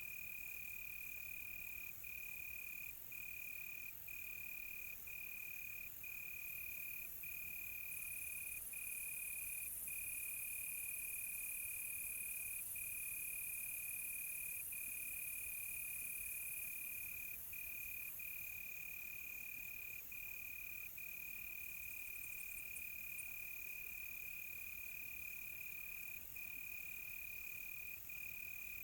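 Crickets trilling: one steady high-pitched tone broken by brief gaps every second or so, over a fainter high hiss that swells from about 7 to 18 seconds in.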